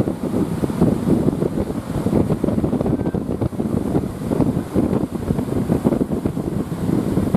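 Strong wind blowing across the microphone: a loud, steady low rush that rises and falls in gusts.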